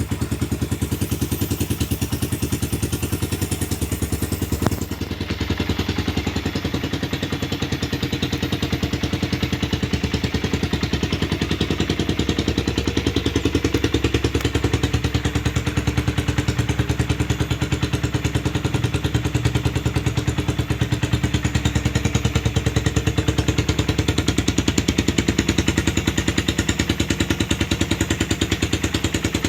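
2011 Suzuki Satria F150's single-cylinder four-stroke engine idling through a gutted Thai-style aftermarket exhaust, a steady rapid pulsing exhaust note. A single sharp click about five seconds in.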